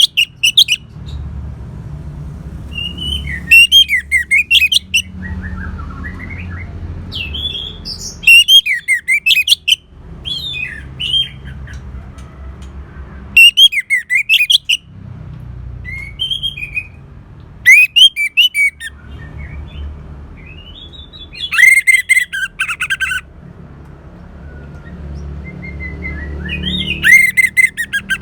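Orange-headed thrush singing: loud, varied whistled phrases with rapid trills, one phrase every four to five seconds, over a steady low background rumble.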